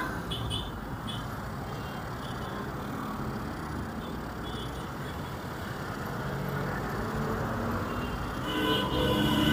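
Street traffic: motor vehicle engines running and passing with a steady low rumble. About a second before the end it grows louder, with a vehicle coming close and steady higher tones like a horn joining in.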